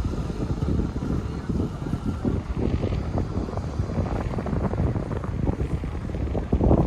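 Wind buffeting the microphone: a steady low rumble that flutters rapidly, with no distinct pitched source.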